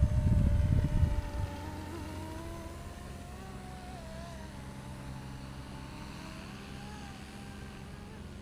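Radio-controlled 470-size Cobra scale helicopter in flight: a steady whine from its motor and rotor that drifts up and down in pitch. A loud low rumble fills the first second and a half.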